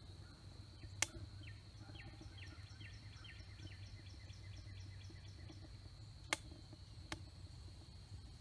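Quiet outdoor ambience: a bird repeats a short chirping note about three times a second for a few seconds, over a steady high tone and a low hum, with three sharp pops.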